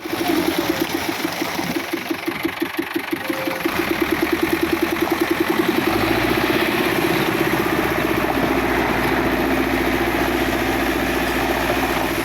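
Diesel engine of a construction machine running, a rapid regular pulsing that quickens over the first few seconds, then settles into steady running with a deeper rumble from about six seconds in.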